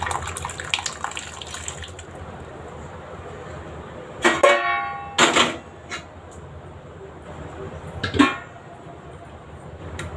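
Steel pots and utensils clatter as boiled peas and potatoes are poured into a pan of masala gravy. About four seconds in there is a brief pitched honk, followed by a few loud knocks of vessels, the sharpest about eight seconds in.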